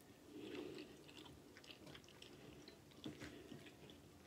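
Faint chewing of a mouthful of soft pasta in tomato sauce, with small scattered wet mouth clicks.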